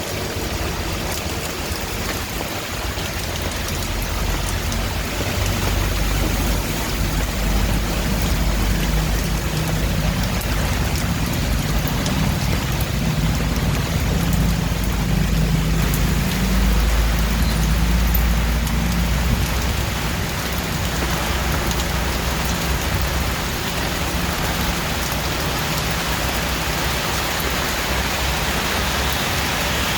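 Steady heavy rain falling, a dense hiss of drops. Under it a low rumble swells through the middle and then eases.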